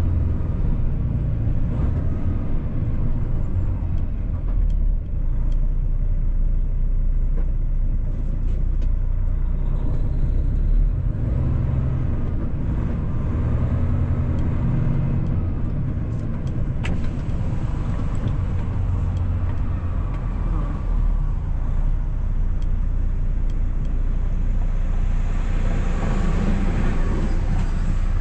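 Semi truck cab on the road: a steady low rumble of the diesel engine and road noise.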